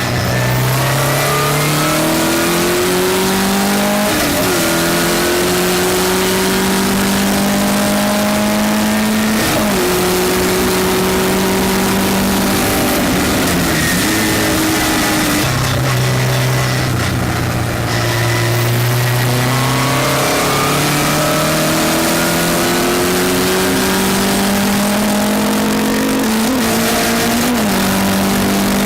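Westfield race car engine at full throttle, climbing in pitch through the revs with quick drops at each upshift. About halfway through it dips and eases off, then pulls up through the gears again.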